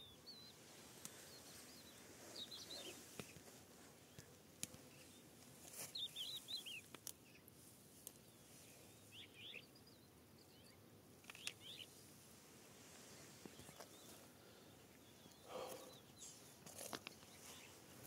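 Faint bird chirps, a few short twittering calls every few seconds over near-silent outdoor background, with a few light clicks.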